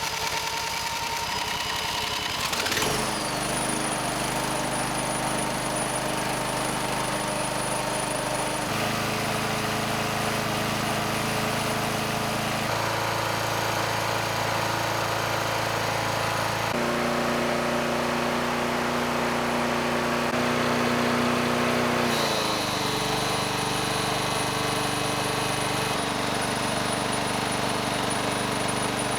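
Lawn mower's small gasoline engine running steadily under the load of its applied blade brake. Its pitch shifts abruptly several times.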